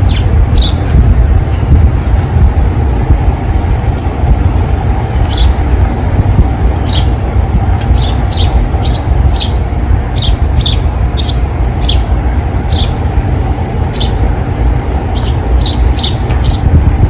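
Small songbirds giving short, sharp chirps, repeated irregularly throughout, over a loud steady low rumble.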